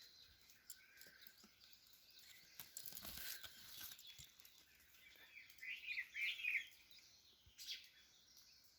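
Faint outdoor ambience with a bird chirping a few quick notes a little past the middle, over scattered faint clicks.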